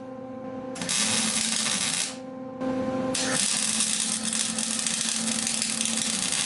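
A small power tool running with a steady hum, with two long bursts of harsh hiss, the second lasting nearly four seconds.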